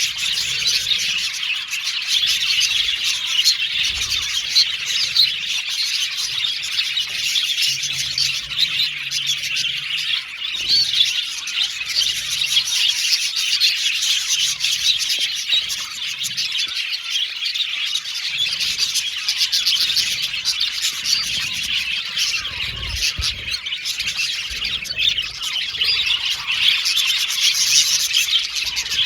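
Many budgerigars singing and chirping at once, a dense, unbroken chatter with no pauses.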